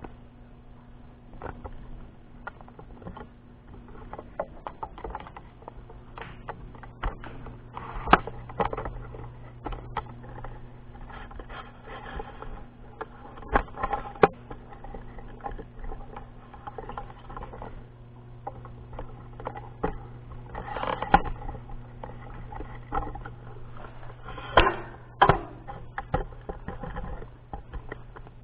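Rain drops tapping and pattering irregularly on a nearby surface during a thunderstorm, with louder clusters of hits now and then, over a steady low hum.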